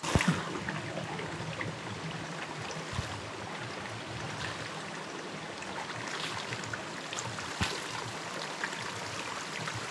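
Stream water running steadily, with a few sharp clicks over the rush.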